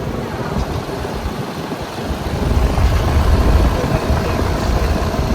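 Outdoor central air conditioner condensing unit running: the condenser fan and compressor make a steady noise. A low rumble gets louder about two seconds in.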